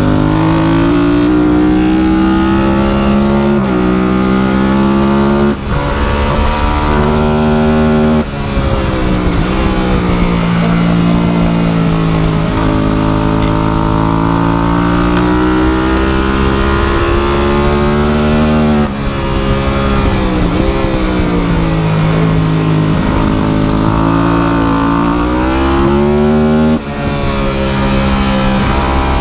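An engine running hard with its pitch rising and falling slowly as the throttle changes, and four brief dips in power.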